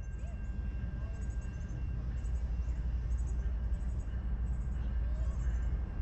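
Low rumble of an approaching train, growing steadily louder, with high repeated chirping above it.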